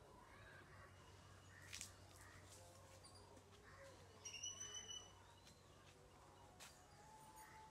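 Near silence with faint bird calls. A short run of high, rapid chirps comes about halfway through.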